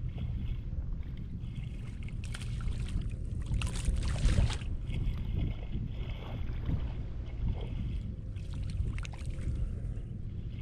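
Water splashing and sloshing in bursts, strongest from about two to four and a half seconds in and again around nine seconds, over a steady low rumble.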